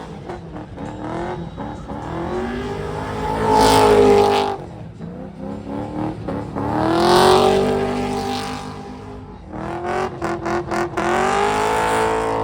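A high-performance car engine revved hard three times, its pitch climbing and then falling back each time, with rapid sharp crackles between the revs.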